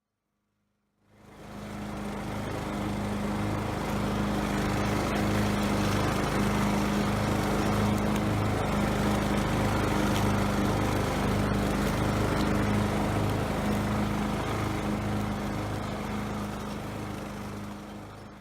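Poulan lawn tractor engine running steadily, with an even pulsing throb under its hum. It fades in about a second in and fades out near the end.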